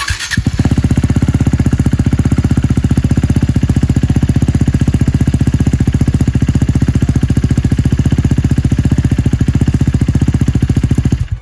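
KTM Duke 390's single-cylinder engine starting and idling with an even, rapid pulse, then stopping abruptly near the end. It is being run briefly on a partial fill of fresh oil so the oil circulates before it is topped up.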